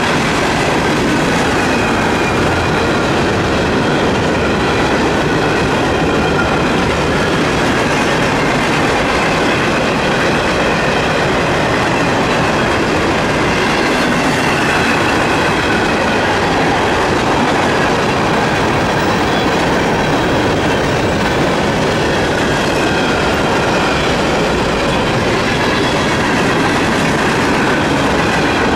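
Freight cars of a manifest train (boxcars, refrigerated boxcars, a tank car) rolling past: a steady rumble of steel wheels on the rails, with a faint wavering high squeal.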